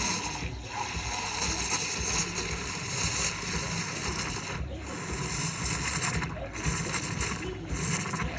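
Milk frother frothing milk for coffee: a steady whirring hiss with a low hum under it, broken by a few brief dips.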